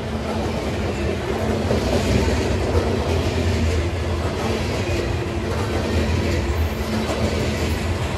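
Freight train passing at speed: a steady diesel-locomotive engine drone, with steel wheels clicking over the rails.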